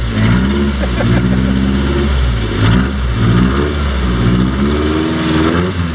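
Rock crawler's engine revving up and dropping back about five times, throttle blips as it works up a rock obstacle.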